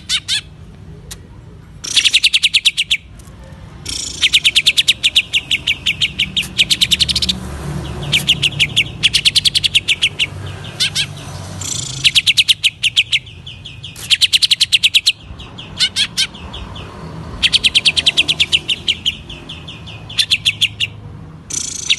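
Green leafbird (cucak ijo) calling in bouts of rapid, sharp staccato notes, about ten a second, each bout lasting one to three seconds with short pauses between. A faint low hum runs underneath.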